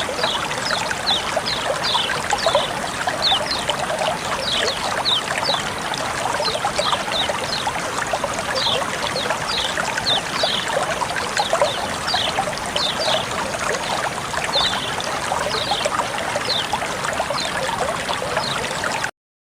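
Water flowing and trickling steadily, with many small high splashes and plinks scattered through it. It cuts off abruptly just before the end.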